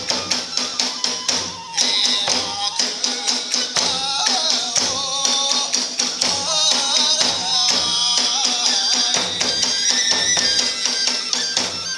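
Iwami kagura festival music: drums keep a steady driving beat while small hand cymbals clash along with it, and a bamboo flute plays a wavering melody.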